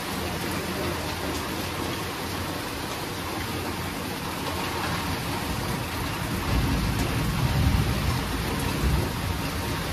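Steady heavy rainfall with a low rumble of thunder that swells about six and a half seconds in and dies away near the end.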